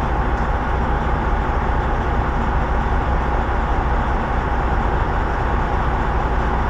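Semi truck's diesel engine running steadily, heard from inside the cab as a low, even rumble.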